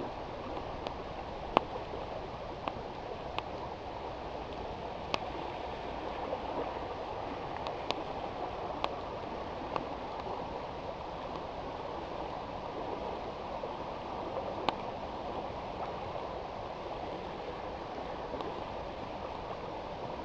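Steady rush of river water, with a wood campfire crackling over it in sharp, single pops at irregular intervals, a second or several apart.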